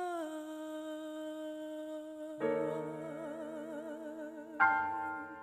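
A solo singer holds one long note on the word "the", dipping slightly in pitch at first and then swelling into a steady vibrato. Piano chords come in about halfway through, and a fresh chord sounds near the end as she sings the last word, "time".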